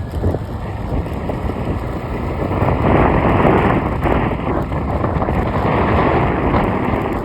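Wind rushing over the microphone over the rumble of a moving road vehicle, growing louder a few seconds in.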